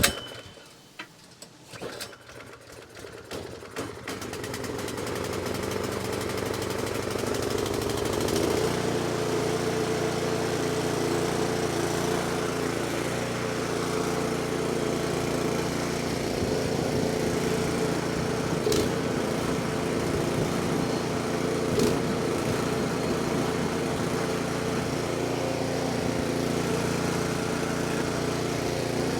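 A 24-inch snowblower's small engine being started on choke after a carburetor cleaning: a few short pulls and sputters, then it catches about four seconds in and runs steadily, its note changing slightly about eight and a half seconds in. The engine running again bears out the diagnosis of a dirty carburetor.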